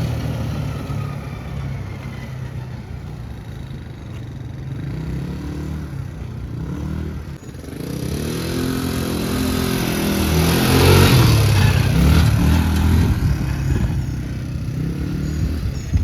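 Small ATV engine running and being revved, its pitch rising and falling, with a brief dip about seven seconds in and a strong rev-up around eleven seconds.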